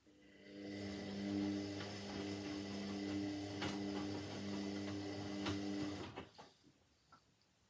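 Indesit 71252 washing machine's motor turning the drum in one tumble of the wash cycle: a steady motor hum that builds over the first second, with a couple of clicks from the tumbling load, and stops about six seconds in.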